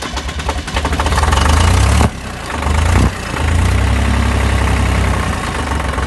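Tractor diesel engine just started after glow-plug preheating, running unevenly with its level dipping briefly about two and three seconds in, then settling into a steady idle.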